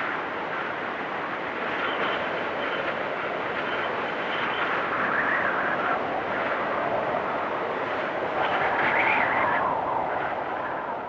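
Blizzard wind blowing steadily, swelling in gusts about five seconds in and again near nine seconds.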